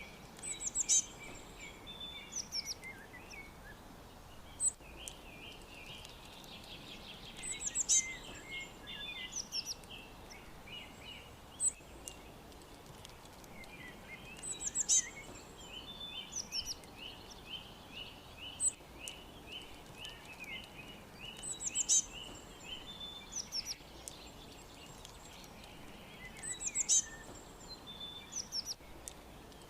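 Songbirds singing. One bird repeats a short, high chirped phrase about every seven seconds. Between these phrases come long rapid series of repeated notes lower down, over a faint steady hiss.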